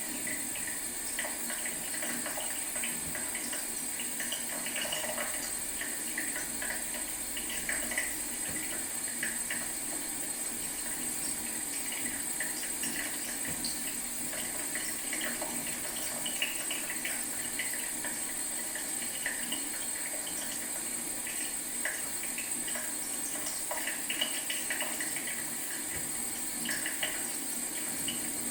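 Leaky tap running with a steady trickle of water into a sink, with small irregular drip splashes scattered through it.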